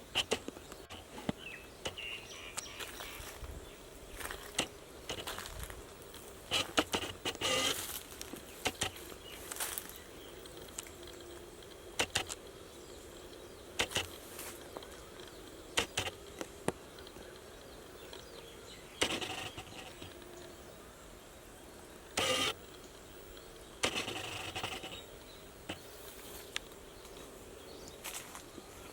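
Footsteps crunching on dry ground, slow and irregular, each step a short scuffing crunch, over a faint steady outdoor background hiss.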